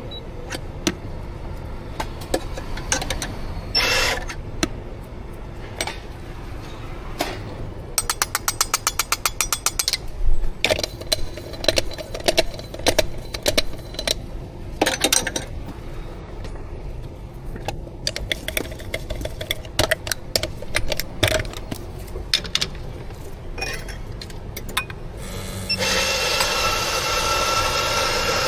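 Barista equipment being worked: a string of taps, knocks and clinks of cups and metal parts, with a fast, even rattle about eight seconds in. Near the end a coffee machine starts a steady hiss with a hum under it.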